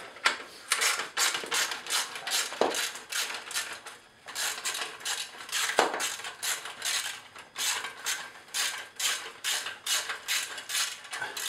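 Hand ratchet with a T45 Torx bit clicking in steady back-and-forth strokes, several clicks a second, as it loosens the clamp-band bolt on a motorcycle exhaust.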